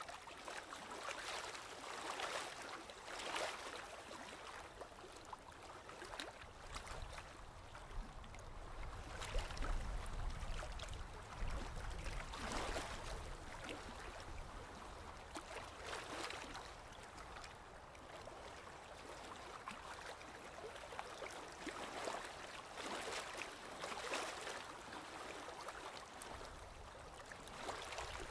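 Small sea waves lapping and splashing, with irregular louder splashes over a steady wash of water. A deeper low rumble swells for a few seconds in the middle.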